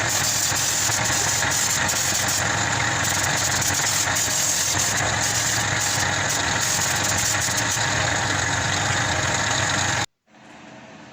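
Steady hiss of paint spraying over a running motor, ending abruptly about ten seconds in, when only faint room tone is left.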